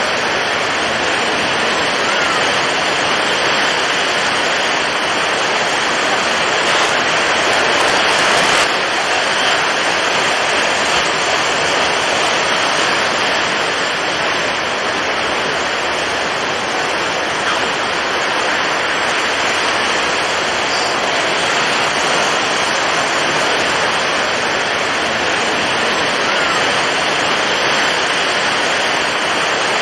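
Storm at sea: strong wind and heavy waves as a steady, dense rush of noise, swelling briefly about eight seconds in.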